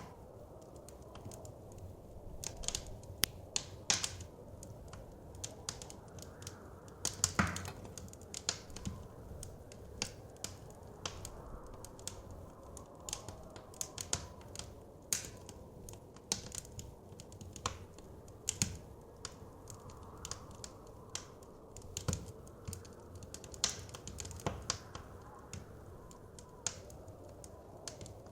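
Wood fire crackling in a fireplace, with irregular sharp pops, a few of them much louder, the biggest about seven seconds in. Under it is a low, steady rush of soft wind.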